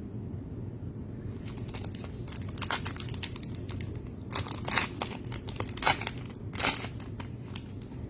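A trading-card pack wrapper being torn open and crinkled by hand, in an irregular run of short crackling bursts that are loudest past the middle.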